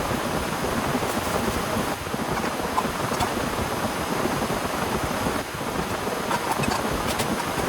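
Heavy rain falling steadily, with a few sharper ticks of drops through it.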